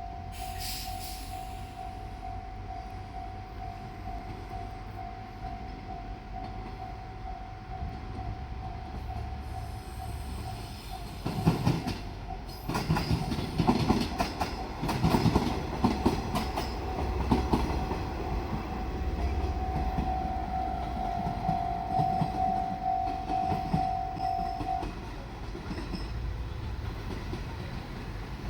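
Japanese level-crossing alarm ringing with a steady pulsing tone. About a third of the way in, a diesel railcar train passes over the crossing, its wheels clacking repeatedly over the rail joints under a low rumble. The alarm cuts off near the end.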